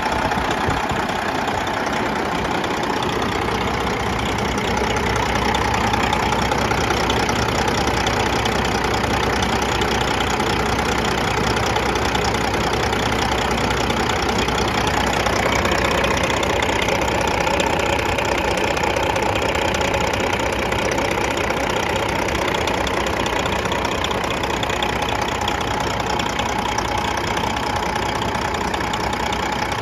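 Semi truck's Detroit Series 60 12.7-litre diesel engine running steadily, with a shift in its note about halfway through.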